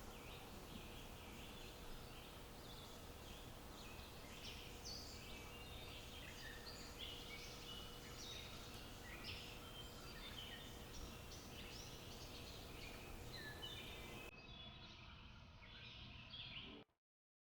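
Faint chorus of small songbirds, many short chirps and calls overlapping, over a low outdoor background with a faint steady hum. The sound cuts off suddenly near the end.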